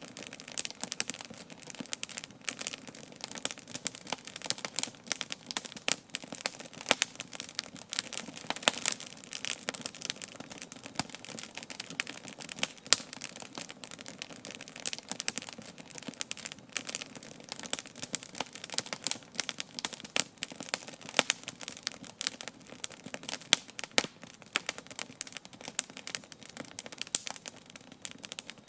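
Campfire burning, its wood crackling and popping in a dense, irregular stream of sharp snaps.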